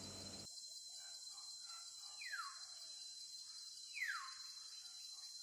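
Two short, falling whistled bird calls about two seconds apart, over a steady high drone of insects.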